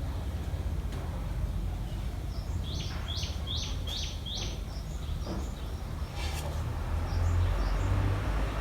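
Common tailorbird calling: a quick run of about six sharp, repeated notes, two or three a second, starting about three seconds in. Under it is a steady low rumble of background noise, with a brief rustle near the end.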